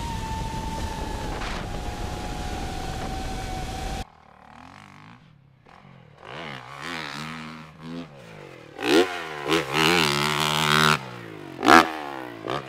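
A steady high whine over loud rushing noise cuts off abruptly, then a dirt bike engine revs up and down repeatedly, with loud surges near the end.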